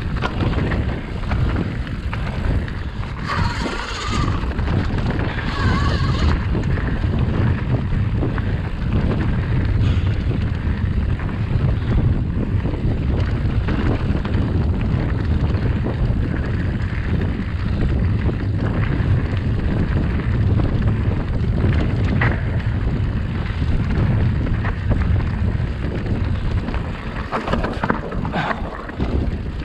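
Steady wind rush on the microphone over the low rumble and rattle of a mountain bike rolling over a trail. Brief brighter, higher-pitched sounds break through about three to six seconds in and again near the end.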